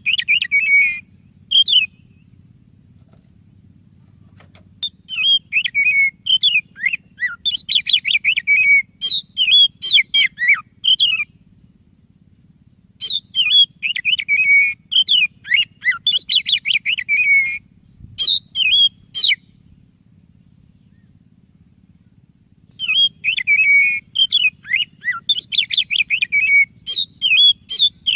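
A white-breasted Oriental magpie-robin (kacer dada putih) singing loudly in several bouts of rapid, varied whistles, warbles and trills, with pauses of a few seconds between bouts. A faint low hum runs underneath.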